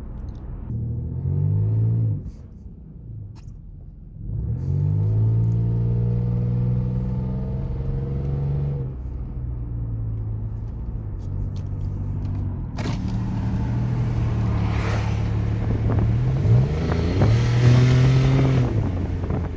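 2006 Lexus GS300's V6 engine pulling through its gears with a loud exhaust note caused by a bad exhaust leak, accelerating in several rises in pitch with steady stretches between. Wind rushes over the microphone in the second half.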